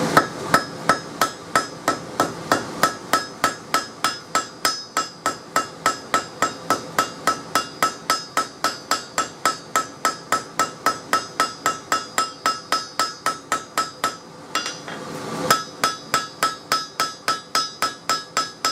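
Cross-peen hammer striking coil-spring steel on an anvil to spread it out, in steady rapid blows of about three a second, each with a ringing metallic tone. The hammering pauses for about a second near the end, then starts again.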